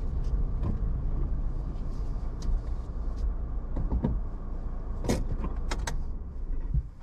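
Car interior noise: the low, steady rumble of a car driving, with a few short clicks and knocks between about four and six seconds in.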